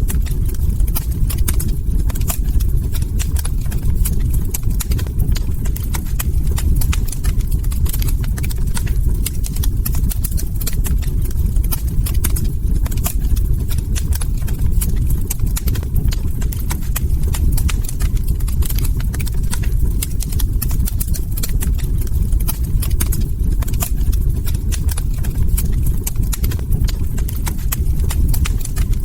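Log fire crackling: a dense, irregular run of small pops and snaps over a steady low rumble.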